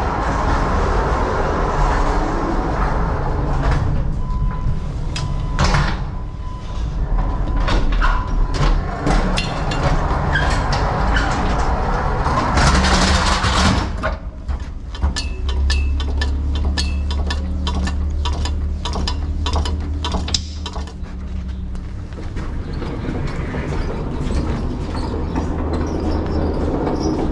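Hand pallet jack moving loaded pallets across a trailer floor, its wheels rolling and clattering with many sharp knocks and rattles. A steady low hum runs underneath through the second half.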